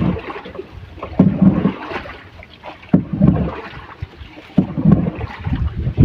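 Paddle strokes pulling a small boat through the water, loud pulses every one and a half to two seconds, with wind rumbling on the microphone.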